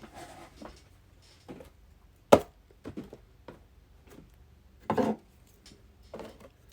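Cardboard card boxes and packaging being handled on a table: a string of knocks and taps, the sharpest about two seconds in, with rustling swishes at the start and about five seconds in.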